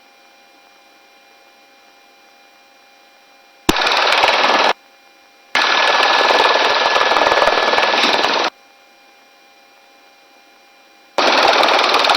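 Helicopter intercom microphone opening in three bursts of rushing noise, switching sharply on and off as a crew member moves around: a short burst, a longer one of about three seconds, then another short one near the end. Under them is a steady low intercom hum.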